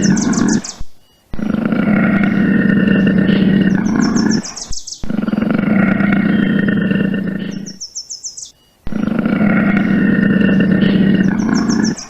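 A large animal's deep, drawn-out roar, repeated three times in nearly identical calls about three and a half seconds long, each ending in a quick run of high chirps.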